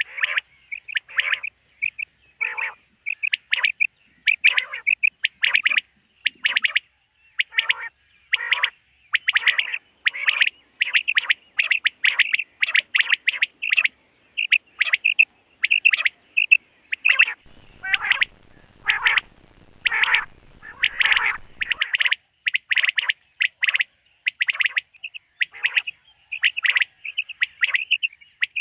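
Common quail calling over and over: short, sharp notes repeated in quick groups. A faint low rumble sits under the calls for a few seconds past the middle.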